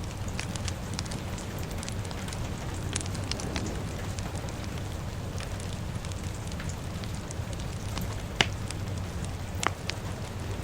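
A fire crackling over steady rain: a constant low rumble and hiss, dotted with frequent small crackles, and two sharper pops near the end.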